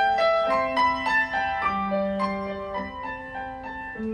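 Live piano playing a short instrumental passage between sung lines, a steady run of single struck notes and chords.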